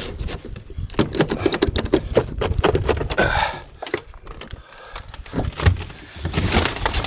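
Footsteps crunching through deep snow, with irregular scrapes and knocks.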